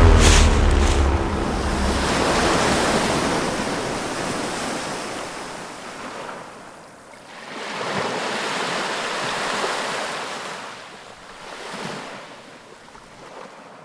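Ocean surf: waves breaking and washing in, swelling and fading in several slow surges, with a low wind rumble on the microphone at the start.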